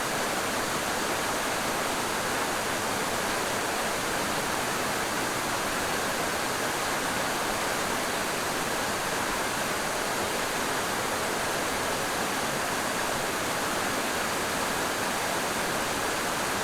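Steady rushing of a waterfall, water falling and splashing in an even, unbroken roar.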